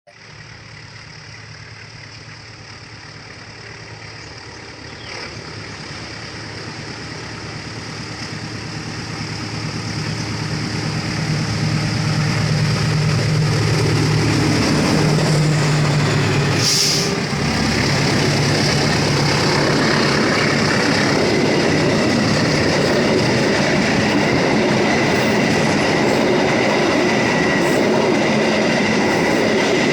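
Train approaching and growing steadily louder over about a dozen seconds, with a low engine drone, then passing close by as a loud, steady rumble of wheels on rails. A brief hiss sounds about 17 seconds in, and a thin, high wheel squeal follows near the end as the train runs through the curve.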